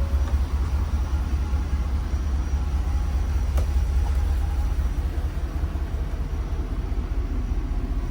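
Ford 7.3L gas V8 of an F650 truck running with a steady low rumble. There is a brief click about three and a half seconds in.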